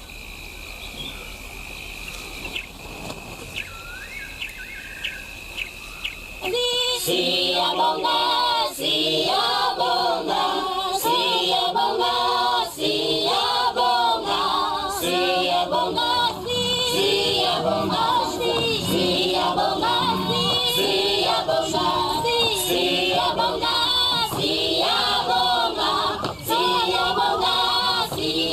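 Quiet bush ambience with a steady high insect trill and a few bird chirps, then about six seconds in a choir starts singing loudly and carries on as soundtrack music.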